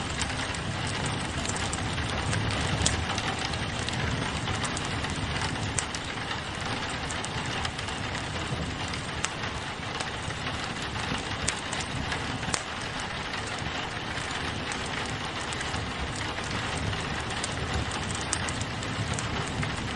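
Steady rain pattering on a window, mixed with the crackle of a wood fire: frequent short sharp pops over a continuous hiss and a low rumble.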